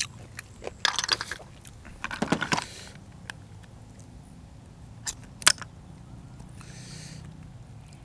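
Close-miked eating: two crunchy bites about one and two seconds in, then chewing with a few sharp clicks.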